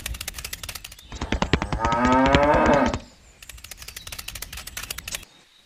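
A cow mooing: one long moo, starting about a second and a half in, over a rapid, even clicking.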